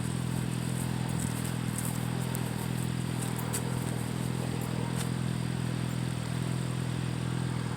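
Kawasaki Concours GTR1400's inline-four engine idling steadily through a Blueflame EVO3 exhaust with the baffles removed.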